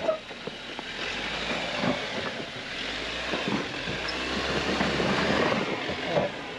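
A 4x4 crawling slowly over a rocky trail obstacle: tyres crunching and grinding over rock and gravel in an irregular crackle, over a low steady engine drone.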